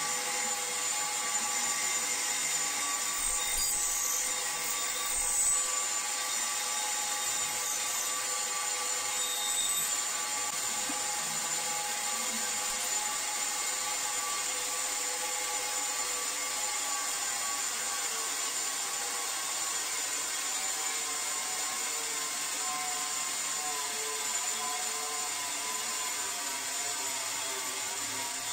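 An electric power tool runs steadily with a whine of several held tones over a hiss. The pitch wavers slightly in the second half, as if under varying load.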